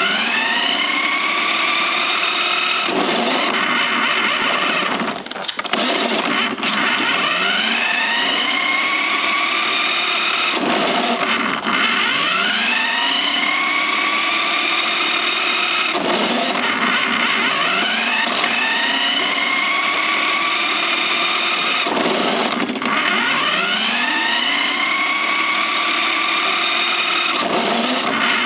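Motor speeding up again and again: a rising whine that levels off, drops back, and starts rising again about every five to six seconds.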